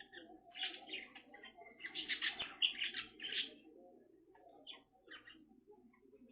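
Soft bird chirping and chattering: short high chirps in quick clusters, busiest about two to three and a half seconds in, then sparser.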